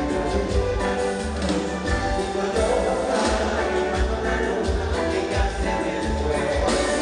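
Live Latin band music with a steady, pulsing bass beat under sustained melodic notes.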